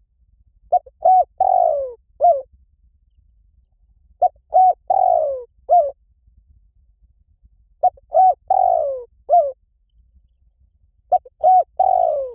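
Spotted dove cooing, a phrase of the call type Thai dove keepers name 'liu tan': two short coos, a longer coo falling in pitch, and a final short coo. The phrase repeats four times, about every three and a half seconds.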